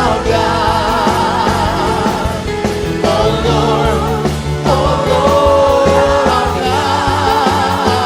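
Church worship music: a live praise band playing, with voices singing a slow praise song.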